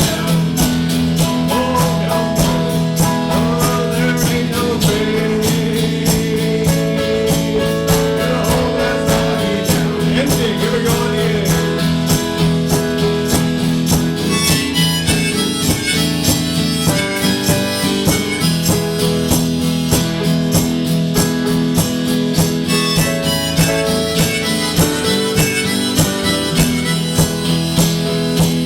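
Harmonica playing a bluesy tune over a strummed guitar, with a steady rhythm, as part of a medley of train songs.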